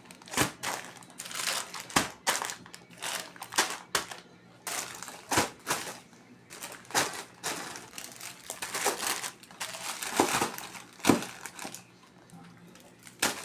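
Plastic grocery bags and packaging crinkling and rustling in irregular bursts as groceries are handled, with a few knocks of items being set down.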